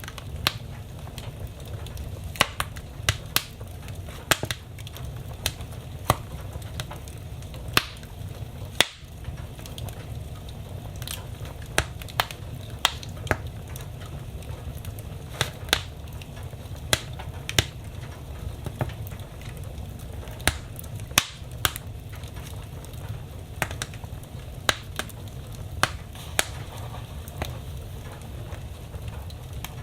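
Wood fire burning in a fireplace: irregular sharp crackles and pops, a couple a second, over a steady low rumble of the flames.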